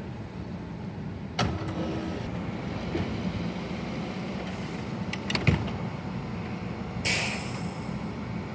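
Low rumble of a Metrorail train, with a sharp clank about one and a half seconds in, a loud cluster of clanks a little past the middle, and a short hiss near the end.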